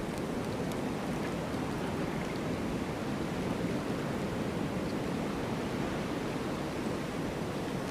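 Storm ambience: a steady, even rushing noise with no thunder claps or separate drops.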